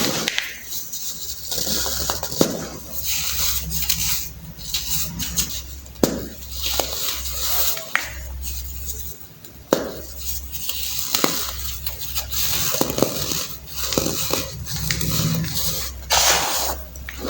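Clumps of baking soda being crushed and crumbled, with irregular crunches and sharp clicks.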